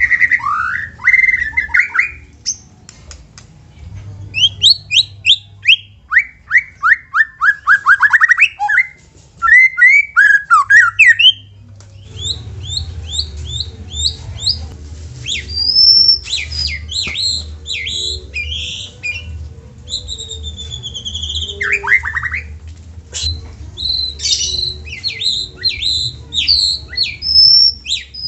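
White-rumped shama (murai batu) singing a long, varied song of fast runs of short notes, falling sweeps, clear whistles and harsh chattering phrases. A low steady hum sits underneath from about halfway.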